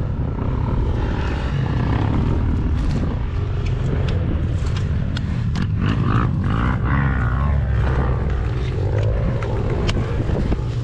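Yamaha YZ125 two-stroke engine running at a steady low idle while the bike lies stuck in sand, with scattered scrapes and knocks as sand is dug out from around the front wheel by hand.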